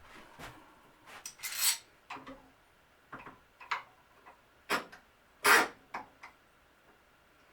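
Scattered clicks, light knocks and a few short scrapes, about a dozen in all and unevenly spaced, the loudest a brief scrape about five and a half seconds in: wood pieces and tools being handled while building a cabinet.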